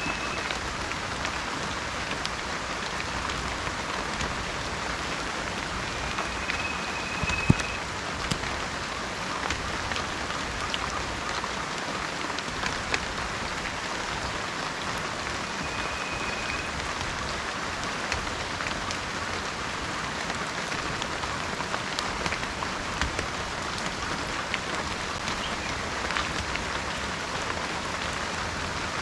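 Heavy rain falling steadily onto surfaces, with a dense patter of drips and one sharper tap about a quarter of the way through. A faint short high whistled note comes three times.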